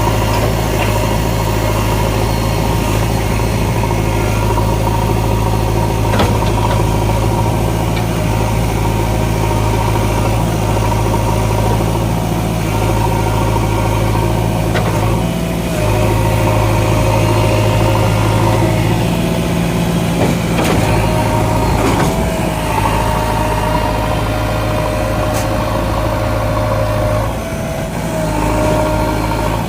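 JCB 3DX backhoe loader's diesel engine running steadily as the backhoe hydraulics work, with a higher whine that shifts in pitch as the load changes and a few sharp knocks of metal on metal.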